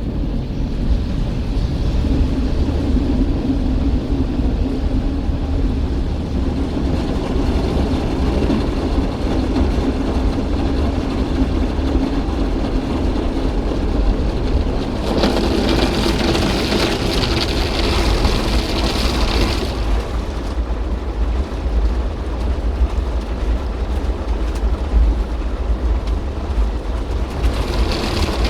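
Christ Auto-Jet C115 automatic car wash running, heard from inside the car: water spraying over the car against a steady low rumble of machinery. A louder, brighter spray hisses for about five seconds midway and returns near the end.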